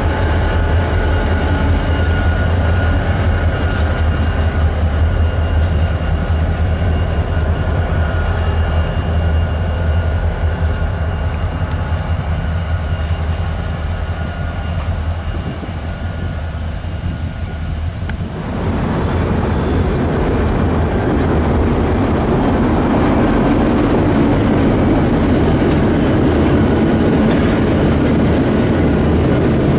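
EMD SD40-2 and SD40T-2 diesel locomotives moving past with a steady low engine drone. About two-thirds of the way through, the sound changes abruptly to the louder rumble and clatter of freight cars' wheels rolling across a steel truss bridge.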